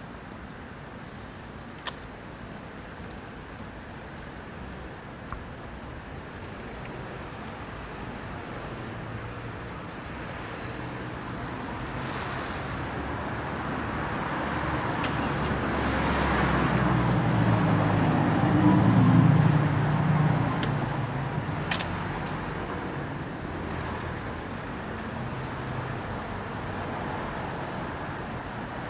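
A motor vehicle on the road approaches and drives past. Its engine and tyre noise build slowly to a peak about two-thirds of the way through, then fade back into steady background traffic.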